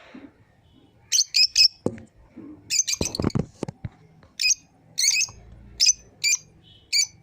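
Pet lovebirds chirping: short, sharp, high chirps in quick clusters of two or three, coming about once a second, with a few dull low knocks in between.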